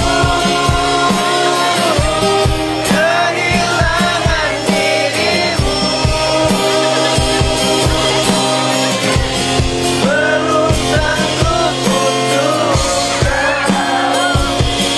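A live band playing a slow pop ballad on drums and guitar, with the audience singing the melody along.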